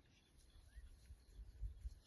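Faint outdoor ambience: a few distant bird chirps, one short rising chirp about a second in, over a low rumble that swells near the end.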